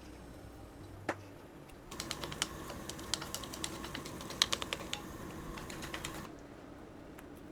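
A run of quick, irregular small clicks and taps lasting about four seconds, with a single tap about a second before it starts.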